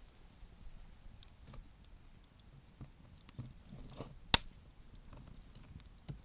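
Wood fire burning with scattered small crackles, and one loud sharp pop a little past four seconds in.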